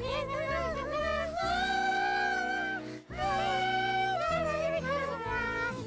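Cartoon music with a high-pitched, wordless voice singing a melody that wavers at first and then holds two long notes, with a brief break between them.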